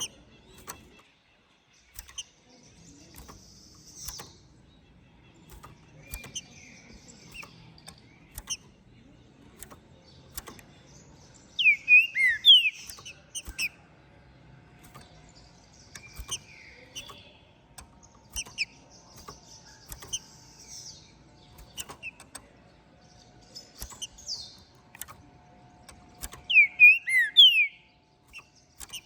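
Green-winged saltator (trinca-ferro) singing: two loud phrases of clear, gliding whistled notes, about twelve seconds in and again near the end, with softer chirps and scratchy high notes between them. Faint clicks are scattered throughout.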